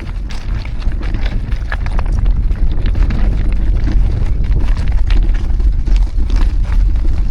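Wind buffeting the microphone of a moving bicycle, a heavy low rumble that builds over the first two seconds, with irregular clicks and rattles throughout.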